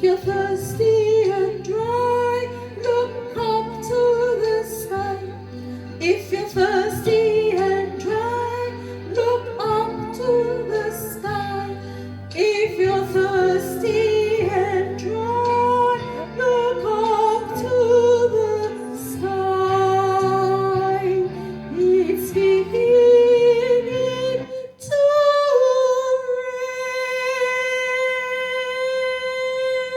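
A woman singing a gospel song over a steady instrumental backing with low bass notes, her voice bending and wandering in pitch. About 25 seconds in she settles on one long held note.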